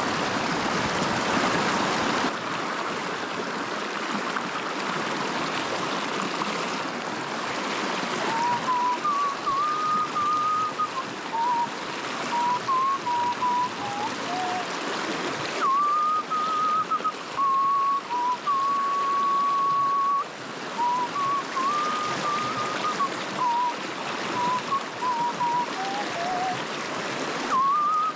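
Rushing creek water, and from about eight seconds in a person whistling a tune, a clear melody in short phrases over the water.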